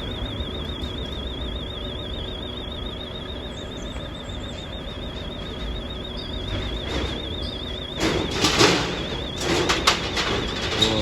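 Car transporter being unloaded: a steady low engine rumble, then a cluster of loud metallic clanks and rattles about eight to ten seconds in, as a car comes down the transporter's deck ramps.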